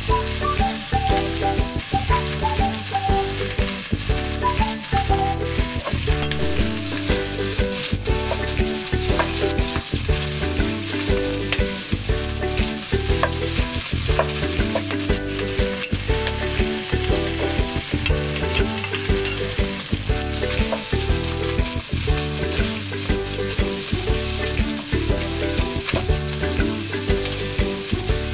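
Pork pieces frying in oil with garlic, ginger and onion, a steady sizzle, while a metal spoon stirs them, clicking and scraping against the pot again and again.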